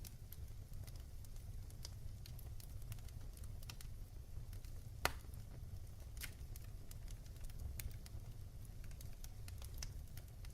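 Wood fire in a fireplace crackling, with a low steady rumble of the flames under irregular small pops and one sharp louder pop about five seconds in.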